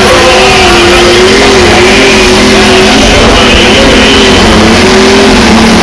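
Light super stock pulling tractor's turbocharged diesel engine running flat out under load. It makes a loud, continuous sound whose pitch wavers slightly up and down as the load changes.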